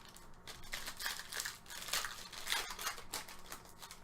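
Trading cards being handled: a run of irregular soft rustles and clicks as cards are slid and flipped against one another.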